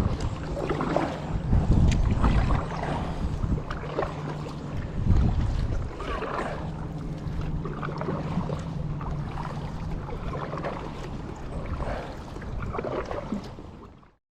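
Kayak paddle strokes dipping and splashing through the water, a stroke roughly every second. The sound cuts off suddenly near the end.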